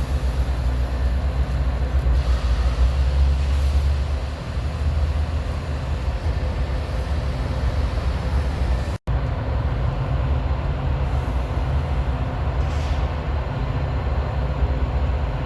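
Diesel locomotive and train running with a steady low rumble and a hum of engine tones. The sound cuts out for a split second about nine seconds in.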